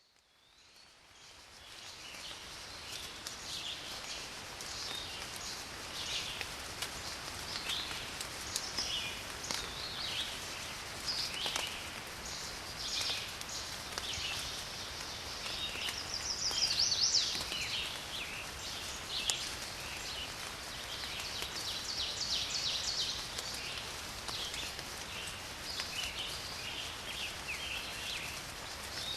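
Steady rainfall with many garden birds singing and calling over it, fading in over the first couple of seconds. A louder, rapid bird trill comes about halfway through.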